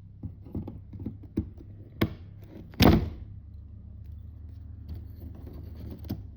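Pliers clicking and knocking against model railway track and baseboard as the last nailed-down track is pulled free, with a sharp knock about two seconds in and a louder, heavier knock about three seconds in.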